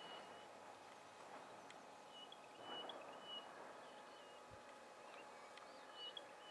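Near silence with faint, high bird chirps in short runs, about two seconds in and again near the end.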